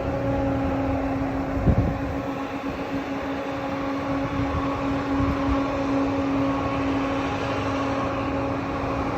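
Steady mechanical hum of one unchanging pitch, with low rumbling wind noise on the microphone and a stronger buffet about a second and a half in.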